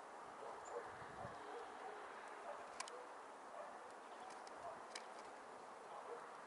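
Faint outdoor ambience of small birds at a feeder: a steady background hum, one brief high chirp less than a second in, soft low notes on and off, and two sharp taps, the first about three seconds in and the second about five seconds in.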